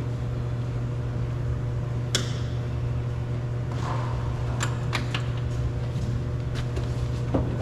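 Scattered sharp plastic clicks and taps from hands working the door handle's wiring connector inside a 2018 Honda Civic front door: one click about two seconds in, then a run of clicks from about four seconds on. A steady low hum runs underneath.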